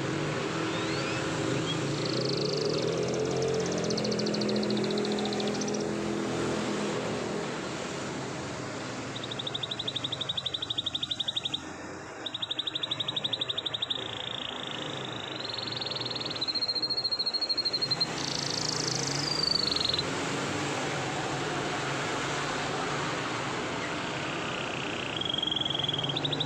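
Canary singing long rolls: rapid rattling trills of one repeated note, each held for several seconds, the longest starting about nine seconds in and running for nearly nine seconds with shifts in pitch, over a low steady background hum.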